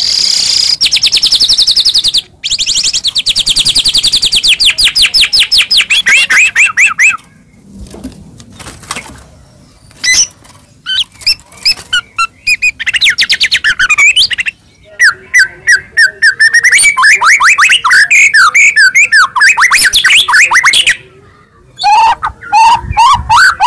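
White-rumped shama (murai batu) singing loudly: long rapid trills of repeated whistled notes, several phrases in a row with short pauses between them, one phrase sliding steadily down in pitch.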